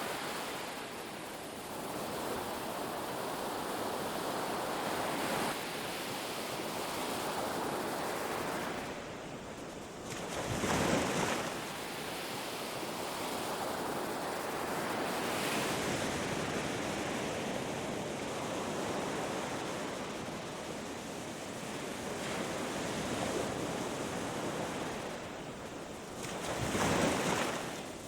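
Ocean surf washing on a beach in a continuous rushing wash, with two louder waves breaking, about eleven seconds in and again near the end.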